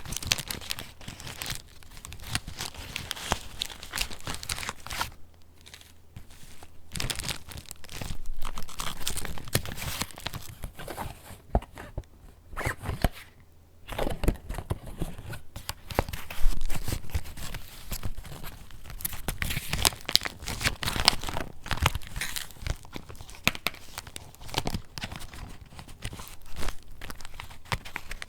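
Paper pages and inserts of a handmade junk journal being handled and turned, with crinkly rustling, rubbing and soft flaps that go on without a break.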